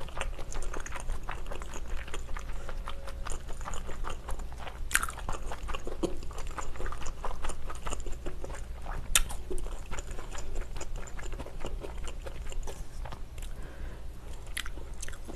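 Close-miked chewing and biting of spicy stir-fried pork and wide chewy glass noodles, with many small wet mouth sounds. A few sharp clicks about 5, 9 and 14 seconds in.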